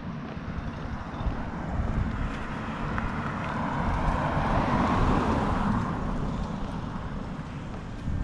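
Outdoor traffic noise: a vehicle on the road beside the footpath passes, its tyre and engine noise swelling and fading over a few seconds. A low wind rumble sits on the microphone throughout.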